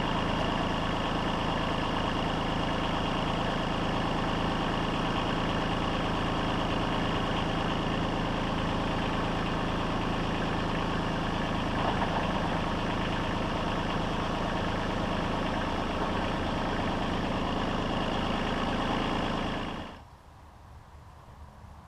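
An engine running at a steady speed, then stopping abruptly about twenty seconds in.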